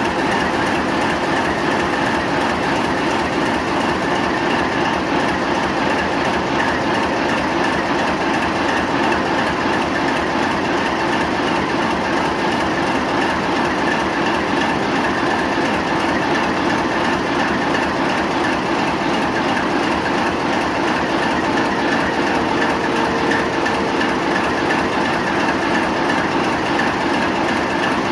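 TEP70 diesel locomotive running steadily under way: its 16-cylinder diesel engine and running gear make a loud, even din with steady tones running through it.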